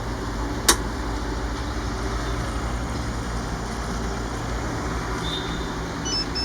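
Steady low mechanical hum, engine-like, with one sharp click less than a second in and a few faint short high beeps near the end.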